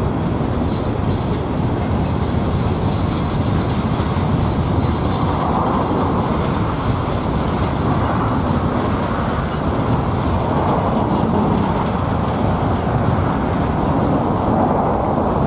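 Freight train of open-top rock hopper cars rolling past, a steady rumble and clatter of steel wheels on the rails.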